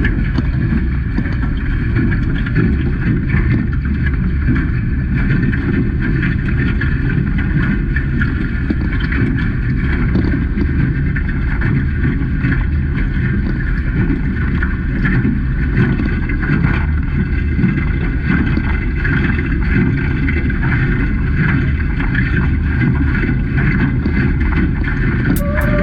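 Wind buffeting the microphone and water rushing past a Hobie 16 catamaran under sail, a steady low rumble throughout. Music starts near the end.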